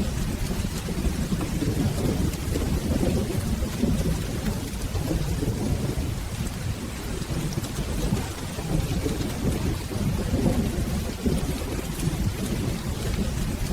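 Steady rain with a continuous low rumble of rolling thunder, as a mixed thunderstorm ambience, with scattered small ticks over the hiss.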